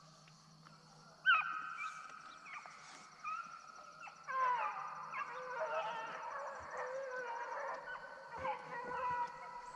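Pack of deer-hunting hounds baying on a drive: one long bawl about a second in, then from about four seconds in several dogs overlapping in full cry.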